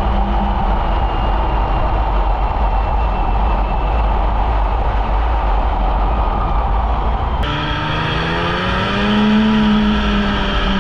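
Polaris Indy snowmobile running along the trail, its engine buried under a steady rushing noise; about two-thirds of the way through the sound changes abruptly, and the engine revs up, its pitch rising and then holding steady.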